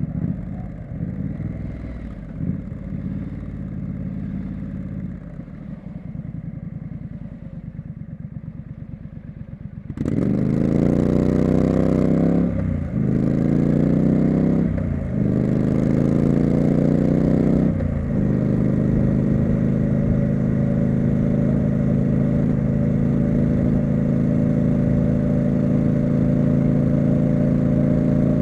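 Triumph Street Scrambler's parallel-twin engine. It runs low and quiet at first, then about ten seconds in pulls hard, rising in pitch through three quick upshifts. It then holds a steady cruising note.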